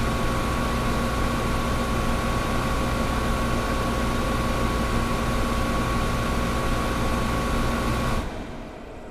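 Window air conditioner running with a steady hum and a fixed whine. About eight seconds in, the sound drops abruptly to a much quieter, duller hum.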